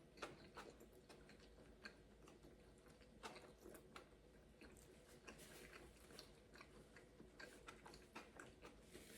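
Faint chewing of a quesadilla close to the microphone: irregular soft mouth clicks and smacks.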